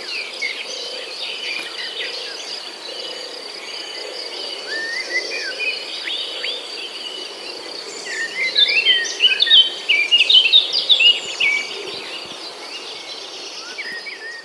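Several birds chirping and calling over a steady, high insect drone. The bird calls are sparse at first and grow busy about eight seconds in, then thin out again.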